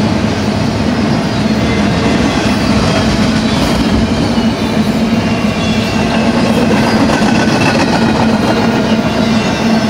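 Freight train of double-stack intermodal container well cars rolling past: a steady, loud rumble of steel wheels on rail with some clickety-clack.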